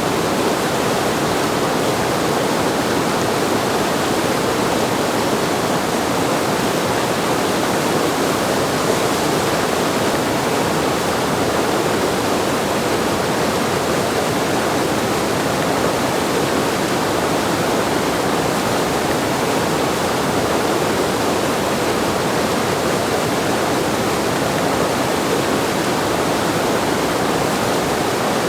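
Steady rushing of river whitewater pouring through a standing surf wave at high flow.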